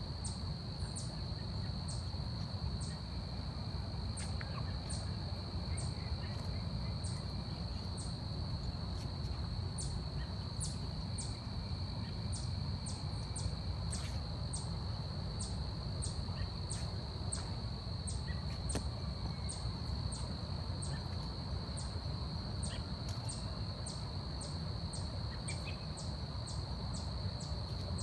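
Forest insects: a continuous high-pitched trill, with short sharp chirps repeating about one and a half times a second, over a steady low rumble.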